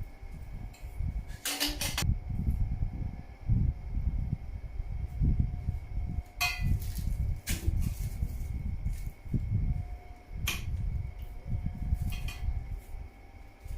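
Motorcycle exhaust parts being handled and test-fitted together by hand: several sharp clicks and knocks over low rumbling handling noise.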